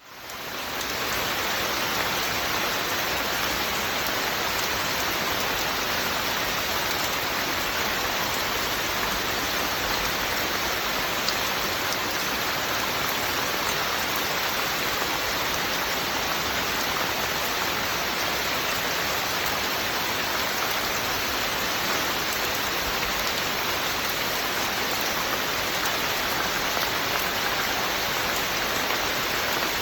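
Steady rainfall, an even hiss of rain that fades in over the first second and then holds constant.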